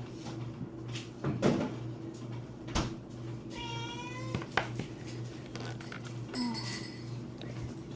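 A house cat meowing once, a single slightly wavering call lasting under a second, among a few sharp clicks and clatters of small plastic toys being handled.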